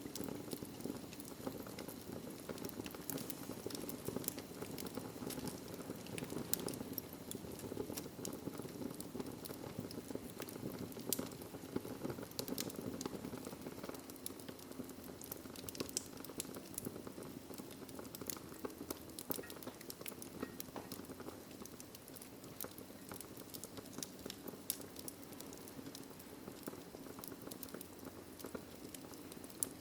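Wood fire crackling in a fireplace: a steady low rush of burning with frequent sharp pops and snaps scattered throughout.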